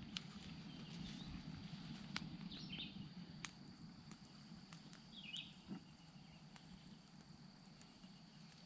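Quiet outdoor ambience: a low steady background rumble with a faint high steady tone, two short bird chirps a few seconds apart, and scattered faint ticks.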